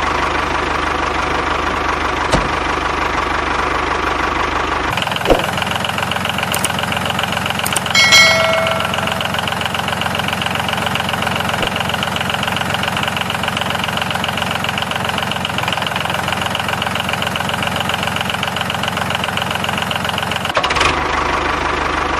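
Small motor of a homemade model tractor running steadily with a fast, even whir. The sound shifts in character about five seconds in and again near the end, with a brief high squeak around eight seconds.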